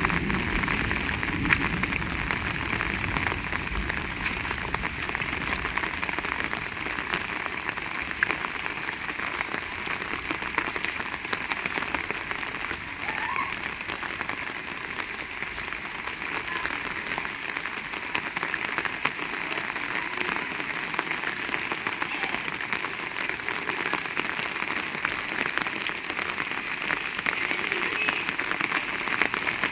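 Heavy rain falling steadily, a dense patter of drops hitting surfaces. A low rumble underneath fades out in the first few seconds.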